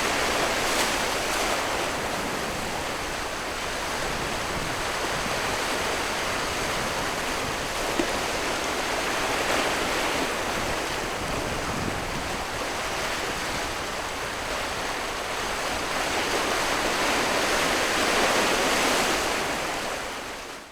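Sea waves: a steady rush of surf that swells and ebbs every several seconds, with one short click about eight seconds in, fading out at the very end.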